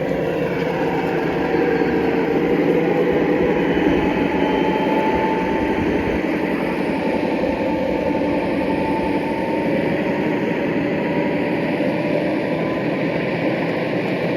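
Electric motors and gearboxes of three G scale model locomotives running steadily as they push a snow plow through snow on the track, with a faint whine that drifts in pitch.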